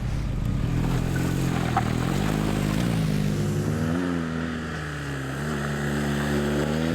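BMW R 1250 GS Adventure's boxer-twin engine pulling under way, its note rising over the first few seconds, easing off around the middle, then rising again near the end.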